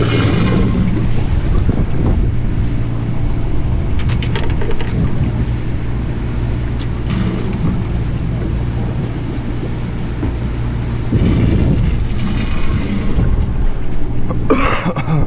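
Fishing boat's engine running with a steady low hum, with wind on the microphone and a few brief knocks.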